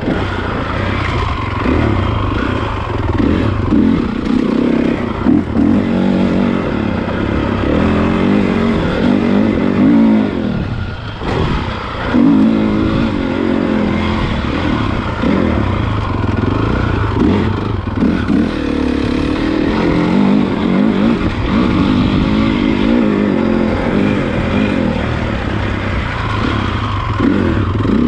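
Honda CRF450 single-cylinder four-stroke motocross bike being ridden, its engine revving up and falling off again and again as the throttle is worked, with a short drop in revs about eleven seconds in.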